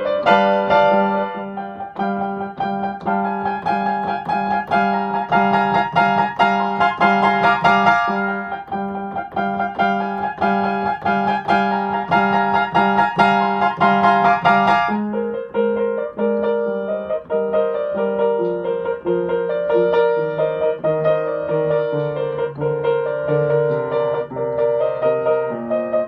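Solo piano playing an instrumental interlude. Evenly repeated chords strike about twice a second, then around halfway the playing turns softer and lower, with a moving line underneath.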